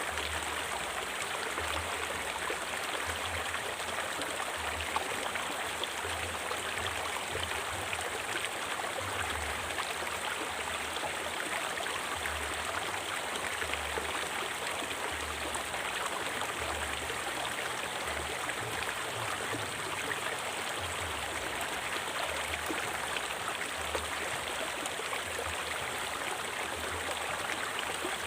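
Steady rushing of a flowing river stream.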